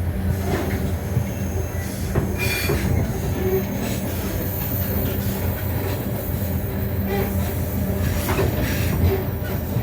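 Vitória–Minas railway passenger train running: a steady low rumble and hum of wheels on the rails, broken by a few sharp clicks.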